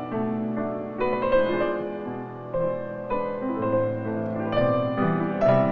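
Background piano music: gentle, slow piano notes and chords.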